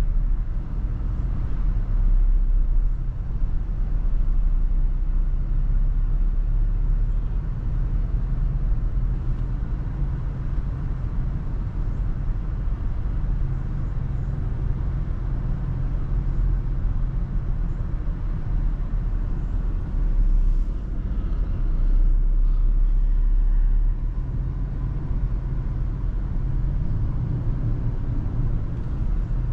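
Toyota FJ Cruiser driving on the road: a steady low rumble of road, engine and wind noise that swells and eases slowly.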